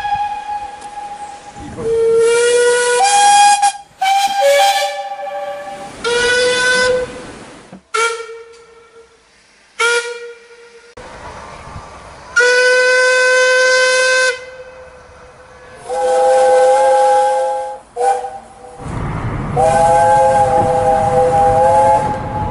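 A series of separate steam locomotive whistle blasts from Talyllyn Railway engines, one after another with short gaps, some short toots and some held for a second or two. One blast rises in pitch as it opens. The last blasts sound two or three notes together over a hiss of steam.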